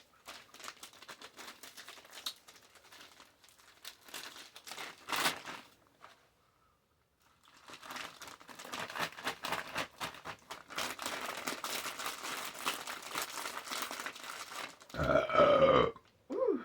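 Paper burger wrapper crinkling and rustling in two long stretches, with a pause about six seconds in. Near the end comes a short, louder vocal sound that falls in pitch.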